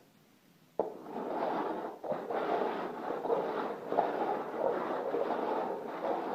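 Upturned plastic cups being slid and shuffled across a tile floor: a continuous scraping with light knocks, starting about a second in.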